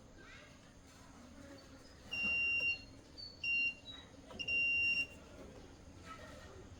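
Three high electronic beeps on one steady pitch. The first and last are about half a second long and the middle one is shorter.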